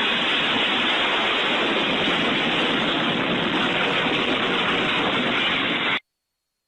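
Train passing with a steady rushing noise that cuts off suddenly about six seconds in.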